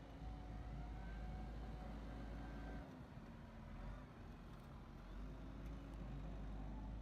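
Large tractor engine running steadily, its pitch shifting slightly partway through, typical of a tractor working a deep-tillage plough.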